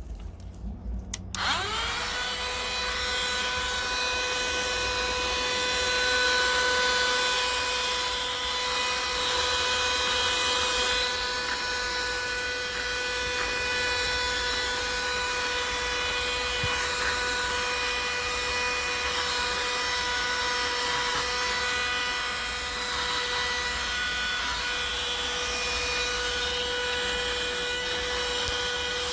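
Cordless handheld mini car vacuum switched on about a second in: its small motor spins up in a quick rising whine, then runs at a steady whine over the hiss of rushing air.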